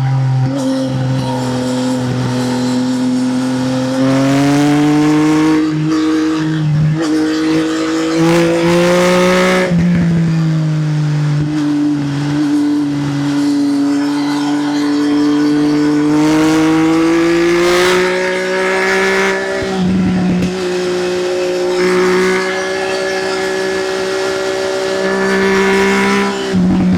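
Triumph Speed Triple's inline-three engine through an SC Project exhaust, under way: the pitch climbs and sinks with the throttle, with several short breaks where the rider shifts gear.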